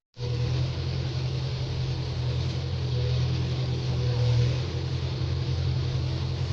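A heavy vehicle's engine running steadily, a deep even hum with hiss over it, swelling slightly about four seconds in.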